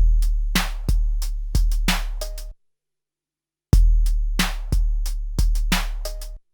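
SP-1200 12-bit drum sampler playing a short drum pattern of deep, long-ringing kicks and sharp snare hits. The pattern plays twice, with about a second of silence between the passes.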